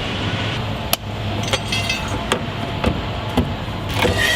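Truck assembly-line factory noise: a steady low hum with scattered sharp metallic knocks and taps, about one every half second to second.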